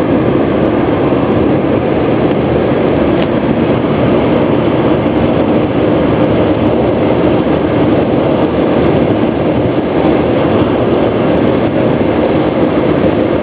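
Steady engine and tyre noise of a moving car heard inside the cabin, an even rumble with no breaks.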